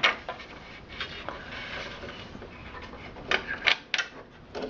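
Sharp clicks, knocks and light scraping of plastic and metal parts being handled inside a desktop PC case as a PCIe expansion card is worked loose: one click at the start, a few more about a second in, a quick cluster of three toward the end, with a faint rustle in between.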